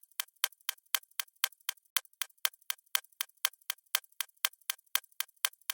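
Steady, evenly spaced ticking, about four sharp ticks a second.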